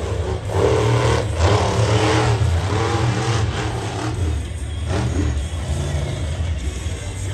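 Monster truck engine revving, rising and falling in pitch over a steady low rumble, with the revving strongest in the first five seconds.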